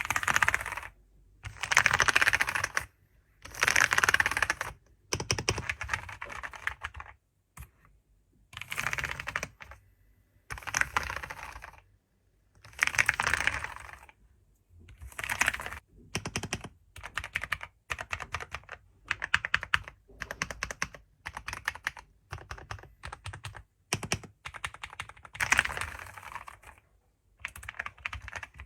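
Typing on a computer keyboard: quick runs of key clicks lasting a second or so each, with brief pauses between them.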